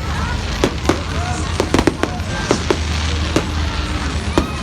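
Fireworks going off in an irregular run of sharp bangs and crackles, several a second, over a steady low rumble.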